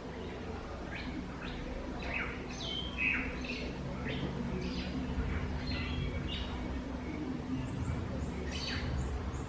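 Wild birds chirping: many short, quick calls scattered through, over a low steady hum.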